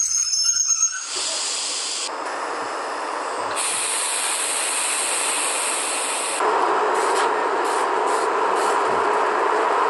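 SNCF electric train: a brief high wheel squeal dies away in the first second, then a steady hissing rush of train noise that changes abruptly in level and tone several times.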